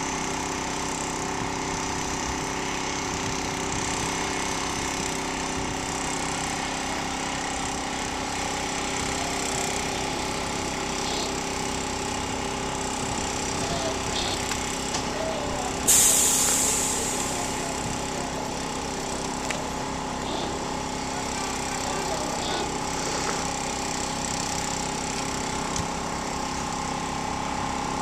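Heavy engine running steadily at idle, with a sudden loud hiss about halfway through that fades away over a second or two.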